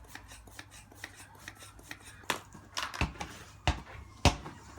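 A repaired punctured football being handled: light clicks and rubbing, then from about three seconds in, three dull thumps roughly two-thirds of a second apart.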